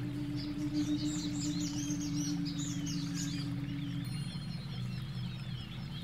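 Birds chirping in many quick, rising-and-falling calls over a steady held tone and a low, rapidly pulsing hum from an ambient sound-healing track. The held tone weakens about four seconds in.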